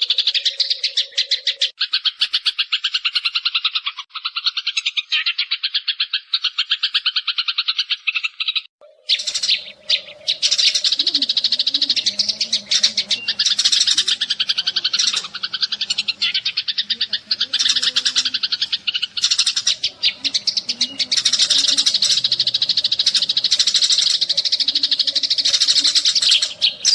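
Sparrows chirping in a dense, rapid, continuous chatter, as used for a trapping lure call, with a short break about nine seconds in. A faint steady low hum runs underneath for parts of it.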